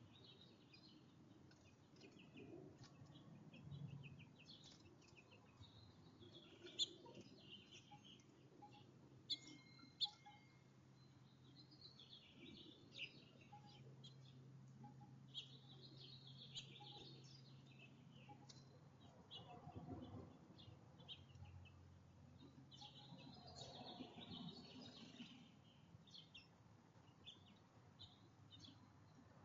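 Faint, continual chirping and twittering of small songbirds at a feeder, many short high calls overlapping, with a few sharp clicks about a third of the way in.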